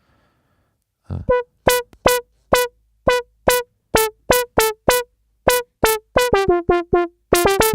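Dave Smith Instruments Tempest drum machine playing a short, pitched synth hit over and over from its pads, each hit dying away quickly. The hits start about a second in at two to three a second, then come faster after about six seconds, where the pitch steps slightly lower.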